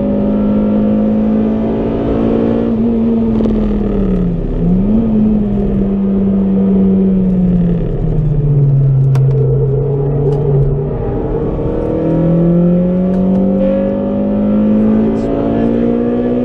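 EP3 Honda Civic Type R's 2.0-litre four-cylinder engine heard from inside the cabin while being driven hard. It pulls at high revs, dips and snaps back up about four seconds in, sags to lower revs and holds there through the middle, then climbs steadily again near the end.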